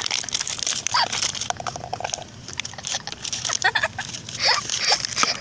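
Plastic wrapping crinkling and rustling with irregular small clicks and taps as gift items are handled and unpacked.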